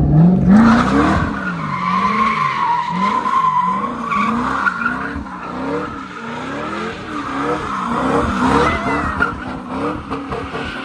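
A C6 Corvette's V8 engine, muffler deleted, revving up and down over and over as the car spins donuts, with the rear tires squealing steadily against the pavement.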